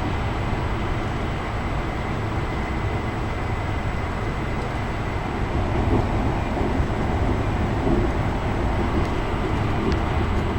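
Steady running noise of an E5 series Shinkansen at speed, heard inside the Gran Class passenger cabin: a continuous low rumble with a faint steady whine above it.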